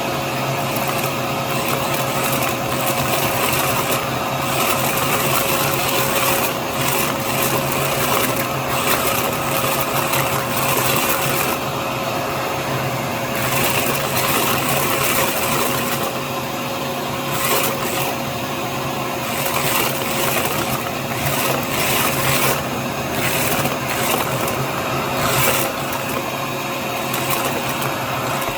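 Hyper Tough vacuum cleaner running with a steady whine, with irregular clicking and rattling as beads are sucked up through it.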